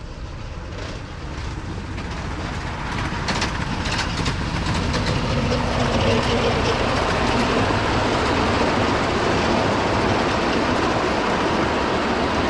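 Miniature park railway train approaching and passing, its wheels rumbling and clicking over the rails, growing louder through the first half and then holding steady, with a few sharp clicks about three to four seconds in.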